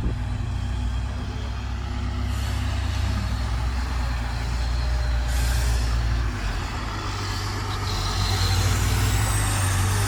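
Dump truck's diesel engine running steadily with a deep low hum, with two short air hisses about two and five seconds in.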